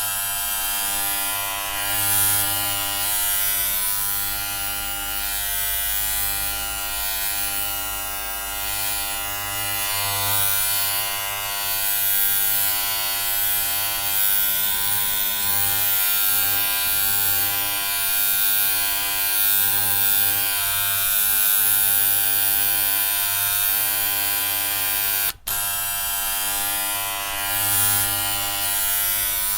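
Electric hair clippers buzzing steadily: a dense, even hum of many stacked tones with a hiss above it. The buzz cuts out for an instant about 25 seconds in.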